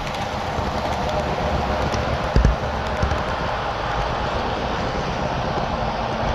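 HO scale model train running on the layout's track: a steady rolling rumble with a single knock about two and a half seconds in.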